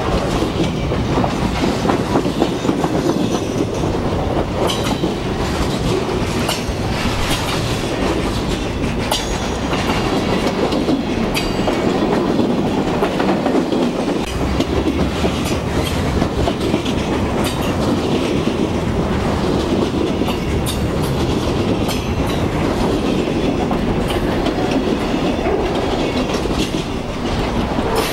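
Freight cars of a long mixed freight train rolling past close by: a steady loud rumble of steel wheels on rail, broken by irregular sharp clicks and knocks from the wheels and couplers.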